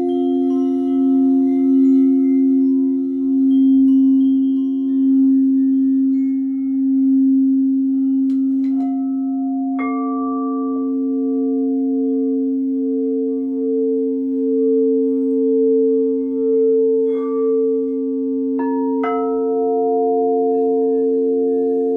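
Singing bowls ringing in long sustained tones with a slow pulsing wobble, struck afresh several times in the second half so that new, higher tones join the ringing.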